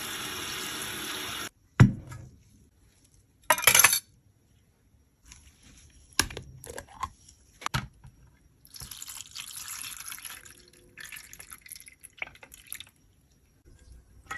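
A steady pour or spray of liquid stops suddenly. It is followed by a sharp knock, a short loud burst of noise, scattered clicks, and two stretches of scraping or rubbing as makeup is handled and worked.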